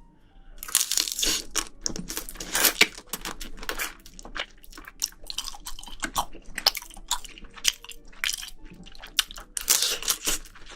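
Close-miked eating of spicy seafood: biting and chewing, with many sharp clicks and short bursts of crunching and wet mouth sounds, the longest bursts about a second in, near three seconds and near the end.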